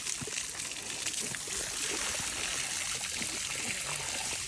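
Water trickling, a steady hiss with scattered faint clicks.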